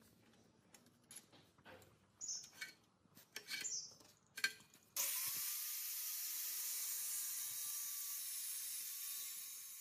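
Light clicks and knocks of metal parts and tools being handled, with a couple of short squeaks. About halfway through, a steady hiss with a thin steady whine starts suddenly.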